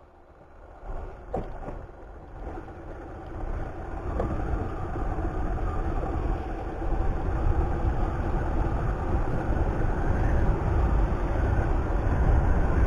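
Yamaha YBR Factor motorcycle riding slowly, its single-cylinder four-stroke engine running steadily with road noise, growing louder about four seconds in.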